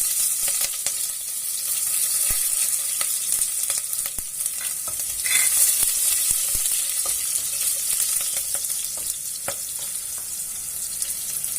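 Garlic and green chillies frying in hot oil with mustard seeds, urad dal and fennel seeds, giving a steady hissing sizzle. A spoon stirring the pan adds scattered clicks.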